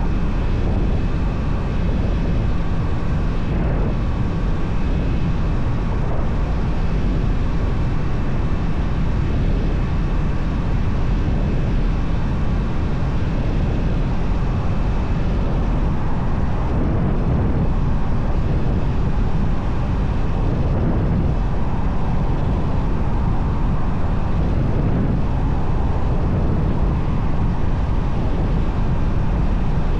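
Motorcycle engine running at a steady cruise, mixed with heavy wind rush over the rider's microphone.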